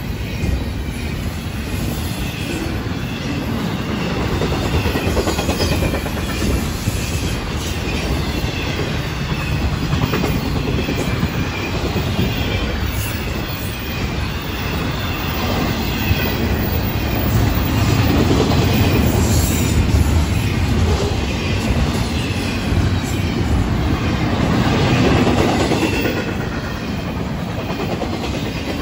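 Florida East Coast Railway double-stack intermodal freight cars rolling past: a steady heavy rumble of wheels on rail, with clickety-clack and a faint high wheel squeal that wavers in pitch.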